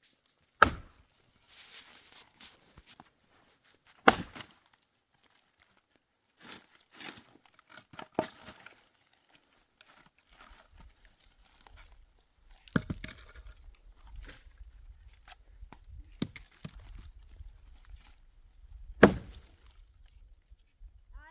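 Firewood being chopped: single sharp blows landing every three to four seconds, with softer crackling and rustling of wood between them.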